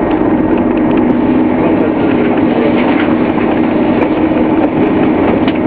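Scania OmniCity bus's diesel engine and drivetrain running steadily, a loud drone with a humming tone that drops slightly in pitch about a second in.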